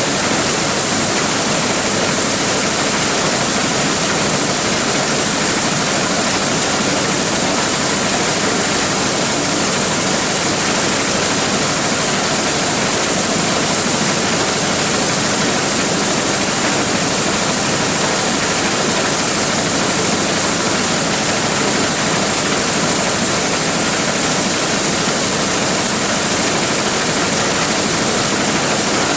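Large corn sheller running steadily, an even, loud rushing noise with a constant high hiss and no let-up.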